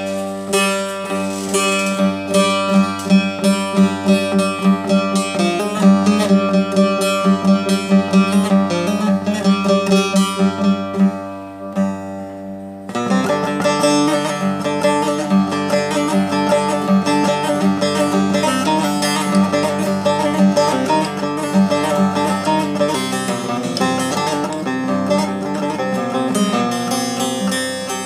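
Bağlama (Turkish long-necked saz) played in a free improvisation: rapid plucked notes over a steadily ringing drone string. About twelve seconds in the playing eases off and lets the strings ring before resuming on a new low note.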